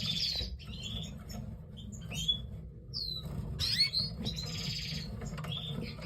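Canaries chirping in short sweeping calls, with two rapid buzzy trills of about half a second each, one at the start and one near the end, over a steady low rumble.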